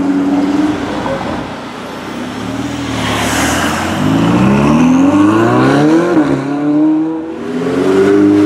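Ferrari 488 GTB twin-turbocharged V8 engines driving in city traffic. There is a steady engine note at first, then a rush of tyre and wind noise as a car passes close about three seconds in. After that the engine rises in pitch as it accelerates, with a brief dip about six seconds in, and near the end it settles into a steady low-speed drone.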